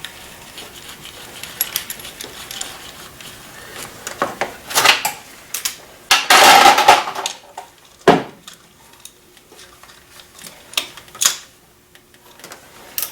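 Metal hand tools and parts being handled, clinking and knocking at irregular moments, with a louder clatter about six seconds in.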